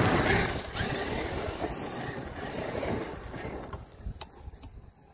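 Large brushless electric RC truck driving over bumpy ground, motor and tyres loudest at the start, then fading away after about four seconds.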